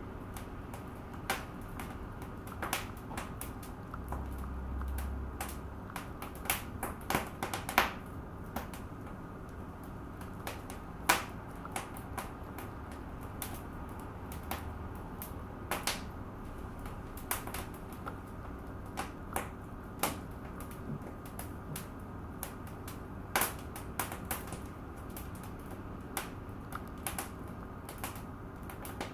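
Wood fire in a fireplace crackling, with irregular sharp pops and snaps, some louder than others, over a low steady hiss.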